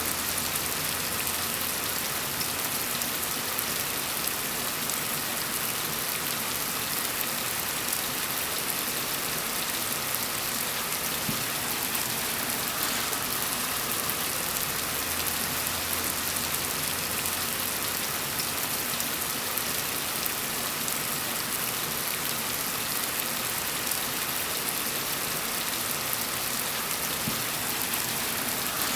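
Steady rainfall hissing on a surface, an even wash of drops with no pauses or changes.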